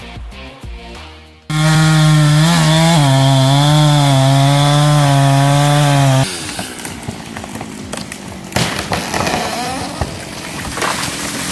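A two-stroke chainsaw, a Stihl MS 251, starts up suddenly at high revs about a second and a half in and runs at a steady, slightly wavering pitch for about five seconds. It then drops away into a rougher, noisier sound with sharp knocks. A short stretch of music comes before it.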